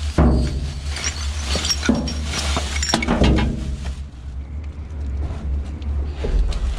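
Wind rumbling on the microphone, with irregular clinking and clattering of items being handled and rummaged through, busiest in the first few seconds.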